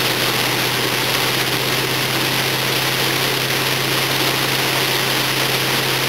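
Car engine running at a steady low hum under a constant hiss, heard from inside the car.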